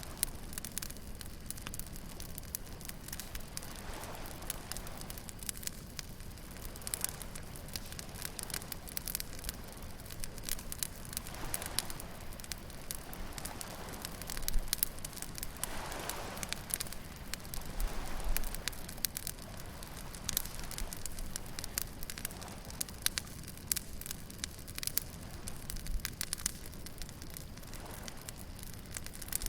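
Beach bonfire crackling with dense, irregular sharp pops of burning wood. Beneath it, the wash of waves swells and fades every few seconds.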